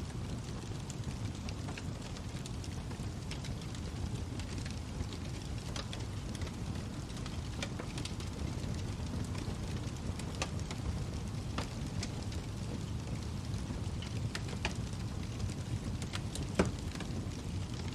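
Wood fire burning in a fireplace: a steady low rumble of flame with scattered sharp crackles and pops from the burning logs, one louder pop near the end.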